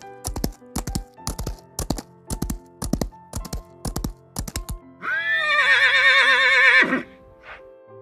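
Horse hooves clip-clopping in a steady rhythm of paired beats, about two pairs a second. The hooves stop about five seconds in, and a horse gives a loud whinny of about two seconds that quavers and drops in pitch at its end. Soft background music runs underneath.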